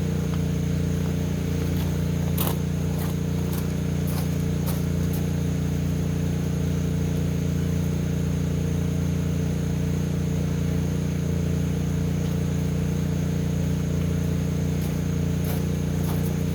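Steady machine hum from a running motor, even in level throughout, with a few light clicks and scrapes about two and a half and four and a half seconds in.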